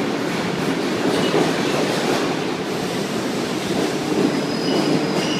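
Subway train running through the station: a loud, steady rumble and rattle of wheels on rails, with brief high-pitched wheel squeals near the end.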